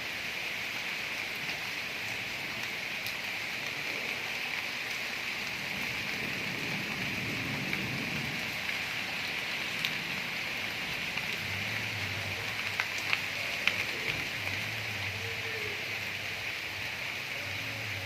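Steady rain falling, a continuous hiss with scattered sharper drop ticks, a cluster of them about two thirds of the way in. A low hum comes and goes in the second half.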